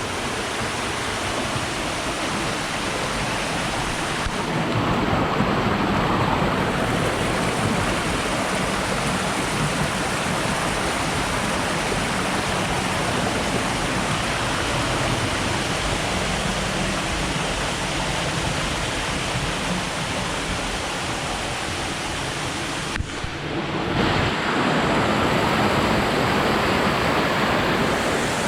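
Rushing water, as from a waterfall or fast stream, making a steady, even roar. Near the end it drops out for a moment and comes back a little louder.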